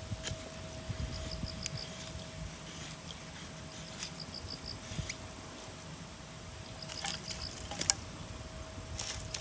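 A small animal chirping outdoors: a high, rapid run of about six chirps, repeated every two seconds or so, over scattered soft clicks and crackles.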